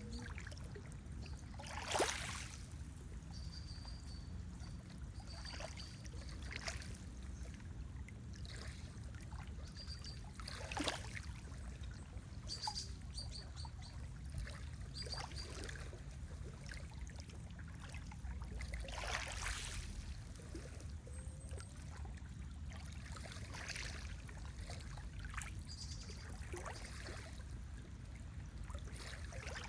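Lake water lapping and splashing over a steady low rumble, with a few louder splashes. A small bird gives short runs of thin high chirps now and then.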